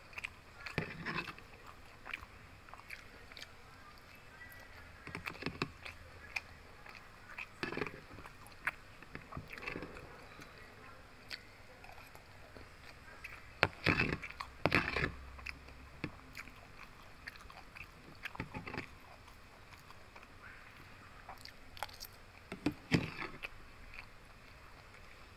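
Mouth sounds of chewing and biting a mouthful of pork belly and rice, with the spoon scraping and clinking in a plastic food container. The loudest bursts come midway and again near the end.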